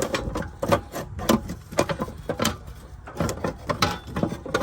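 Irregular sharp clicks and clacks of hard parts being handled, about two or three a second.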